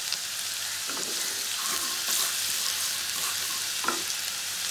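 Chopped garlic and ginger sizzling in a little hot oil at medium heat, stirred around the pan with a wooden spatula.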